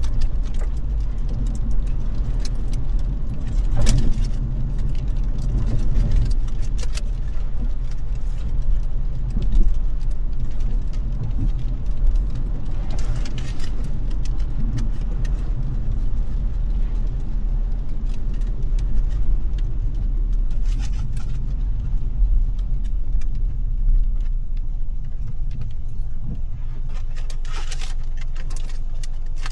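Car driving in the rain, heard from inside the cabin: a steady low road and engine rumble with scattered light ticks and rattles.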